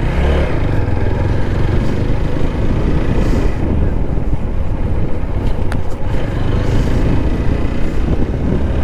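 Motorcycle on the move at road speed: the engine running under a steady rumble of wind on the microphone.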